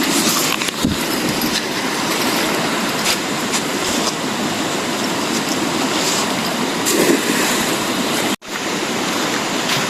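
Steady rushing noise with no clear pitch, cut by a brief dropout about eight seconds in.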